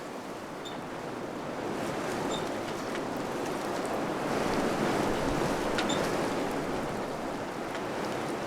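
Wind blowing in steady gusts, a rushing noise that swells to a peak about five seconds in and then eases a little, with faint small ticks and rattles on top.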